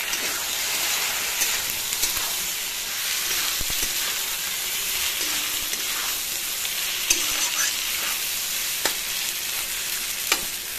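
Potatoes and cauliflower frying and sizzling in oily spice masala in a kadhai, stirred with a spatula. The steady sizzle is broken by a few sharp clicks of the spatula against the pan, mostly in the second half.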